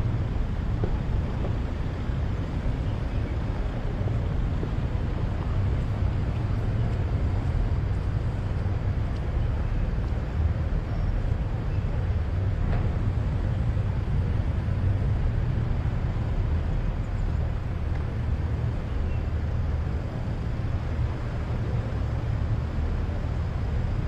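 Steady low outdoor rumble of vehicle engines as cars drive slowly up and idle.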